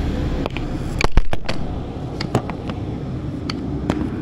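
Diesel railcar running, heard from inside the carriage: a steady low rumble with irregular sharp clicks and knocks, a quick cluster of them about a second in.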